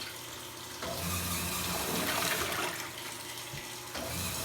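Water swishing in a top-loading washing machine as it washes laundry, over a low motor hum that shifts about a second in and again near the end.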